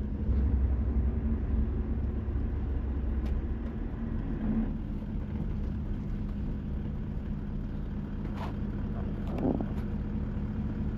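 Car interior while driving: a steady low engine and road rumble that eases a little about four seconds in, with a few scattered clicks and knocks.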